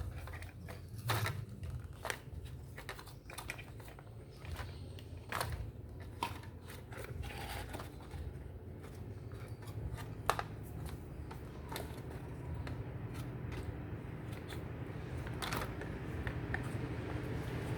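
Scattered small clicks and taps of hands handling small parts, over a low steady hum.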